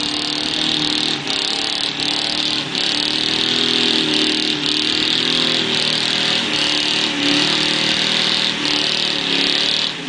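Pickup truck engine running at high revs, its pitch wavering up and down, with a loud high hiss that drops out briefly every half second or so.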